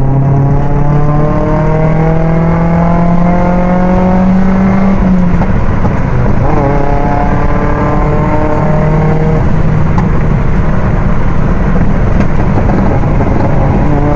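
Mitsubishi Lancer engine accelerating hard. Its note climbs for about five seconds, drops abruptly, changes sharply again just after six seconds, then holds steadier over heavy road noise.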